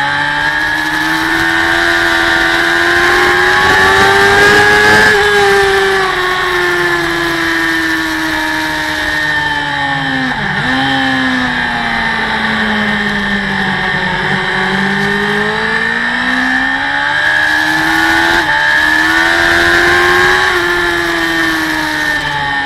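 Racing motorcycle engine heard from a camera mounted on the bike at speed, its revs climbing and falling in long sweeps through the corners, with sharp brief dips about ten and eighteen seconds in. A steady rush of wind runs underneath.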